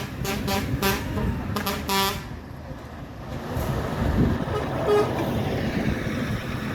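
A vehicle horn tooting several short blasts in quick succession over the rumble of passing engines, which run on steadily after the toots stop about two seconds in.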